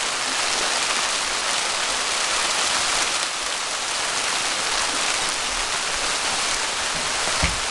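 Hailstorm: a dense, steady hiss of hailstones pelting down, with a short low thump near the end.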